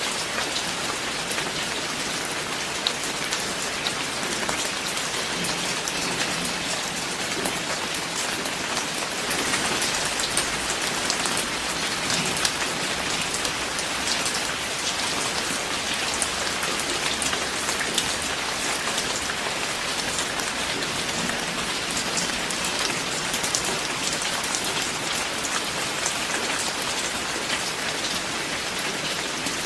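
Steady rain falling, a dense patter of individual drops over a continuous hiss, swelling a little about ten seconds in.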